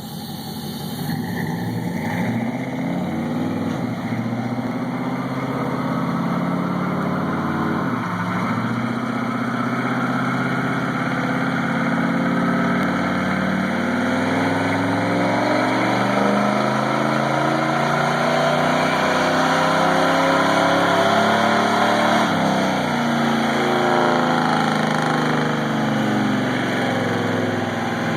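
Chevrolet TBI 350 V8 pickup engine with Flowmaster mufflers running under load on a chassis dyno: the exhaust note swells over the first couple of seconds, then the pitch climbs through a long pull, with a brief break about eight seconds in and another change around twenty-two seconds.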